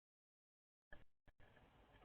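Dead silence for nearly a second, then faint outdoor background noise cuts in abruptly with a short click and two brief dropouts.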